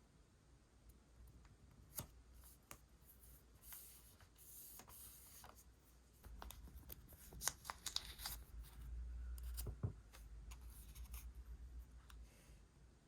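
Faint stationery and paper handling: scattered light taps and clicks, a brief paper rustle about four seconds in, and a cluster of clicks around seven to eight seconds.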